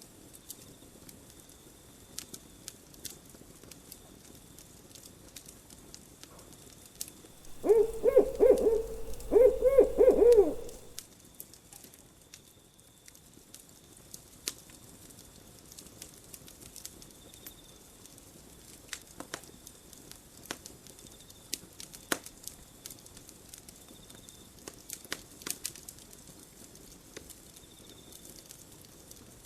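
Campfire crackling, with scattered sharp pops throughout. About eight seconds in, an owl hoots in two short series with a wavering pitch, louder than the fire.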